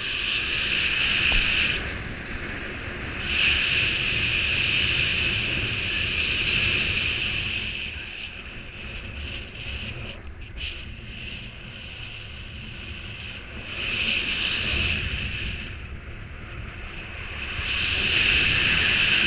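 Strong wind rushing over the microphone, a steady hiss that swells and eases several times in gusts.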